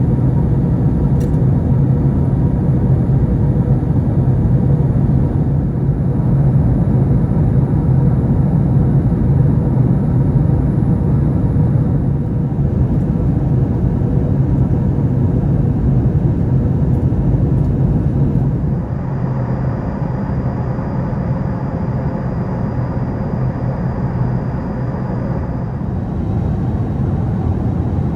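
Steady low rumble of cabin noise aboard an Airbus A380, engine and airflow noise, slightly quieter from about nineteen seconds in.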